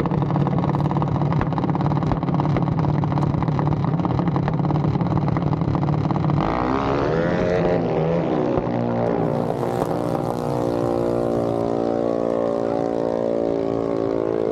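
Mini bike engine running at a steady low note, then revving up about six seconds in as it launches, its pitch climbing and then holding high.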